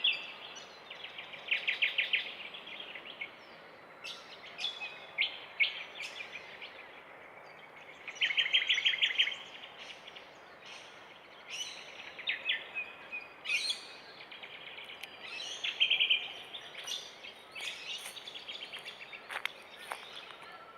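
Birds calling in repeated bouts of rapid trills, each a fast run of short high notes lasting about a second, over a steady background hiss.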